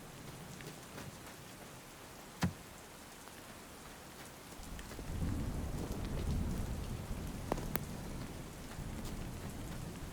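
Steady rain with scattered drops ticking close by, and one sharp louder tick about two seconds in. About halfway through, a low rumble of thunder swells up and carries on under the rain.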